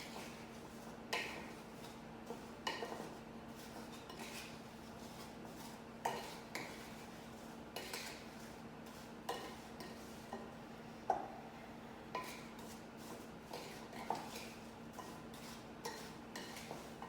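A utensil clinking and scraping against a mixing bowl at irregular intervals, tossing sliced apples with sugar and lemon juice, over a faint steady hum.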